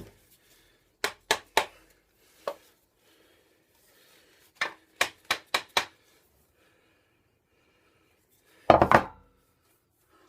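Sharp knocks of a tool striking wood: three quick taps, a single tap, a run of five quick taps, then a louder, heavier knock near the end.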